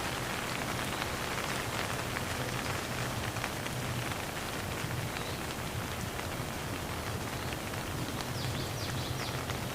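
Steady rain falling, a constant hiss with many small drops ticking on a surface, over a low steady rumble.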